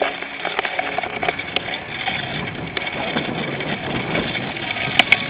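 Cyclocross bike clattering over rough ground as it is ridden, heard up close from a camera on the bike or rider, with irregular rattling knocks and a couple of sharp clacks near the end.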